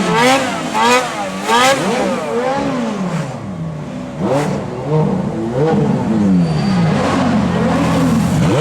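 Ferrari supercar engines being revved hard in turn, with three quick sharp blips in the first two seconds followed by longer swells that climb and fall back. The pitch lines overlap at times, as if more than one car is revving at once.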